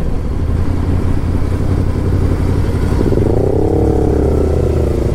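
Yamaha YZF-R1 sport bike's inline-four engine running under way, a steady drone whose pitch climbs and then eases back about three seconds in.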